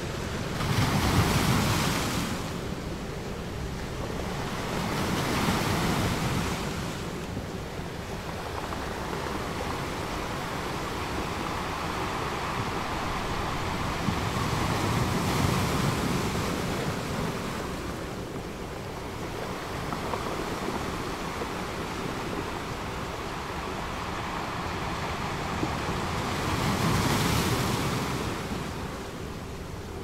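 Ocean waves surging and washing in, swelling in four slow surges over a steady surf hiss, the first surge the loudest.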